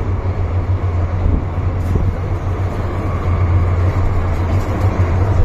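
Steady rumble of an MTR M-Train underway, heard from inside a passenger car: a deep hum under wheel and running noise.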